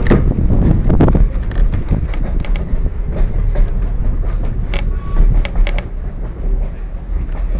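Steam excursion train's passenger cars rolling along the track: a steady low rumble with scattered sharp clicks of the wheels over the rails, a little louder in the first second.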